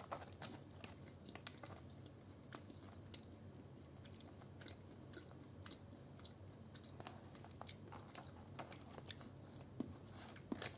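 Faint chewing of a crunchy fish snack: scattered small crunching clicks over a low, steady hum.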